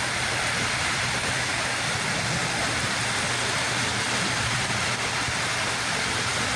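Sea waves washing on the shore: a steady rush of surf.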